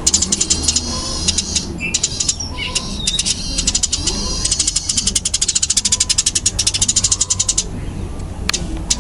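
Eurasian tree sparrow giving its 'fighting' call: a loud, fast, closely packed run of high chirps, about ten a second, breaking off briefly near the end.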